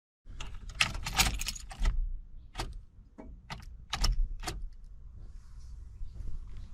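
Rattling followed by a series of sharp clicks, heard over a low steady rumble.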